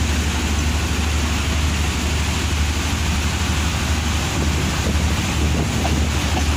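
Steady rush of wind buffeting the microphone held out of a moving passenger train's window, over the train's continuous low running rumble.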